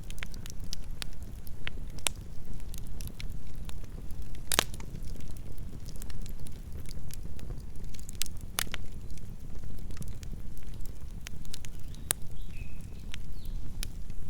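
Campfire burning: a steady low rumble of flames with scattered sharp crackles and pops from the burning wood, the loudest pops about four and a half and eight and a half seconds in.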